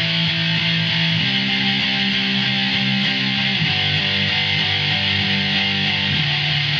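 Electric guitar tuned to drop D playing repeated power chords barred across the bottom three strings, moving from the 7th fret up to the 10th, down to the 5th, then to the open strings. The chord changes about every two and a half seconds.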